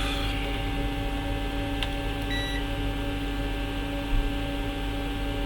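A short electronic beep from a multimeter, about two and a half seconds in, as the probes touch a component on a laptop motherboard. A faint click comes just before it, over a steady electrical hum.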